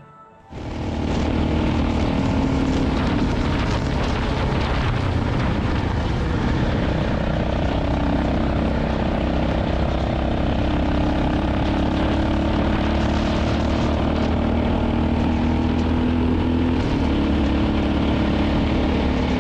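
KTM single-cylinder dual-sport motorcycle engine running steadily at road speed, starting suddenly about half a second in, with wind rushing over the bike.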